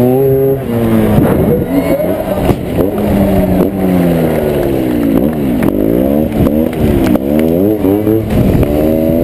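Trials motorcycle engine revving up and down over and over as the throttle is blipped and released, heard close up from the bike itself.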